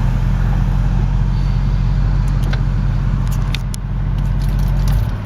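2001 Audi S8's V8 running with the exhaust separated between the catalytic converters and the mufflers, so the mufflers are bypassed: a loud, deep, steady drone. A few light clicks come in the middle, and the engine note changes about five seconds in.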